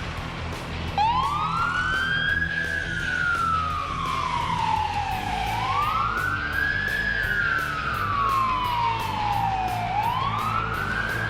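Emergency vehicle siren in slow wail mode, switched on about a second in: each cycle rises quickly then falls slowly, repeating about every four and a half seconds, over a steady low vehicle rumble.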